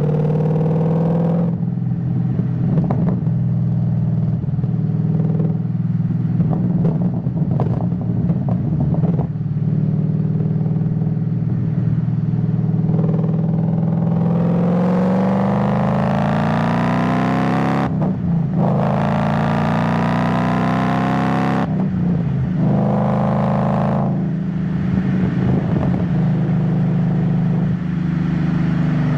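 Ford Mustang GT S197's V8 engine and exhaust on the move: running at low revs with a run of crackles from the exhaust, then a hard pull rising in pitch, a brief break for a gear change about eighteen seconds in, another rising pull, and a lift-off back to a steady lower note.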